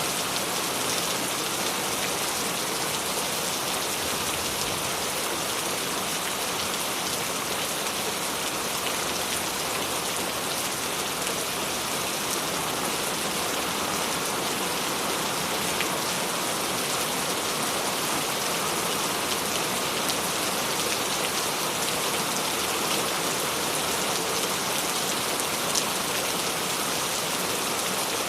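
Steady rain falling, an even hiss with faint drops ticking here and there.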